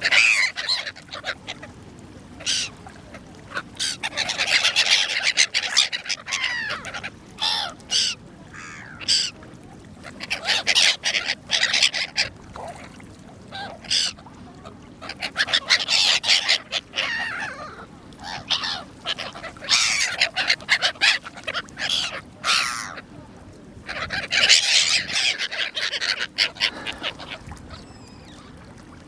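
A flock of gulls calling, many loud overlapping cries coming in bouts with short quieter gaps.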